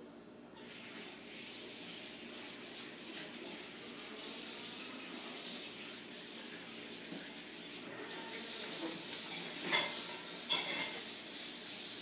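Cat eating dry kibble: a steady crackling crunch and rattle of the kibble, starting about half a second in, with two sharper clicks near the end.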